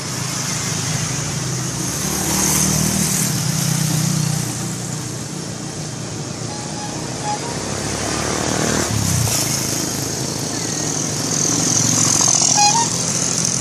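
Road traffic: a large engine running with a low steady hum, and vehicles passing, their noise swelling about two and a half seconds in, around nine seconds and again near the end.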